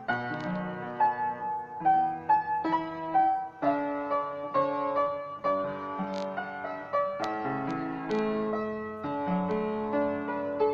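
Solo piano playing a slow melody with chords, notes struck and left to ring.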